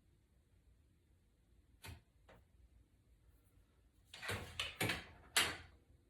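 A knife blade scraping old adhesive off the inside edge of an iPad's aluminium body. There is one short scrape about two seconds in, then a quick run of three or four louder scrapes near the end.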